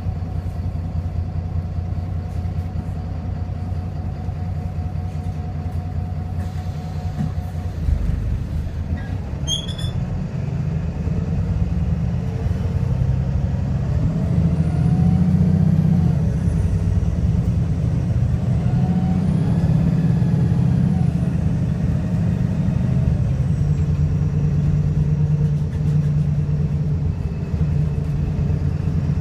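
VDL SB200 bus engine, which is misfiring and sounds unhealthy, idling and then pulling away under load. There is a thud and a few sharp ticks about eight to ten seconds in. The Voith automatic gearbox whine rises and falls twice as the bus accelerates.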